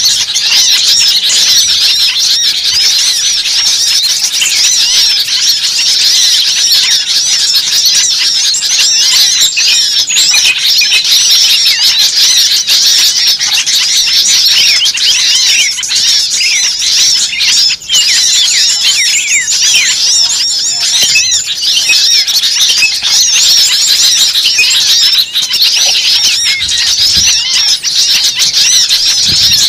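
Dense, continuous chatter of many small songbirds calling at once: rapid high-pitched chirps and trills overlapping without a break. It is a bird-luring (pikat) recording that mixes the noisy calls of several small bird species.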